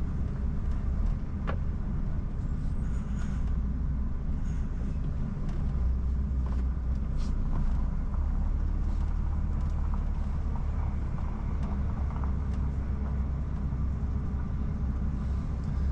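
Articulated lorry's diesel engine running steadily as a low rumble, heard from inside the cab while the truck moves slowly, with faint clicks and rattles.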